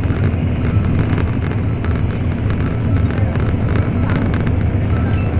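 Cabin noise of an N700 series Shinkansen at speed: a loud, steady low rumble of running gear and air rushing past the car body.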